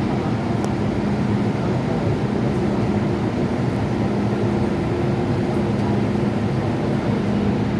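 Metro train standing at a station platform: a steady hum from the train's onboard equipment, two constant low tones over an even noise, with no change in level.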